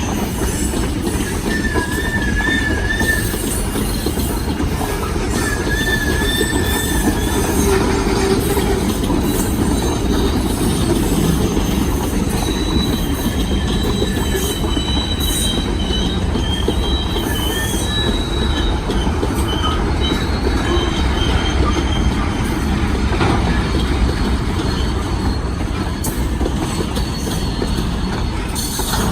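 Green Mountain Railroad train rolling past close by: a steady rumble of railcars on the track, with high, wavering wheel squeal that comes and goes and clicks of wheels over the rail joints.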